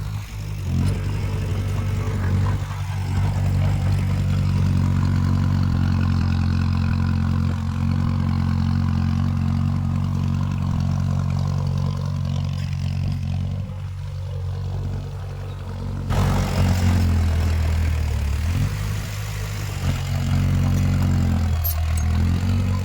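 Heavy diesel engine of earthmoving machinery running under load, its note swelling and easing. About two-thirds of the way through the sound changes abruptly and grows louder and brighter.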